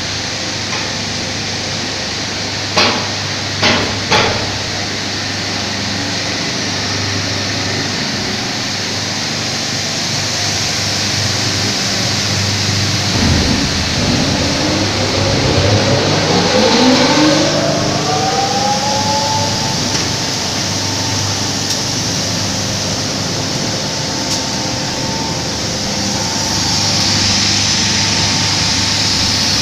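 A machine's motor runs over a steady noisy hum. Three sharp knocks come about three to four seconds in. Midway a whine rises smoothly in pitch, as the motor spins up, then holds steady.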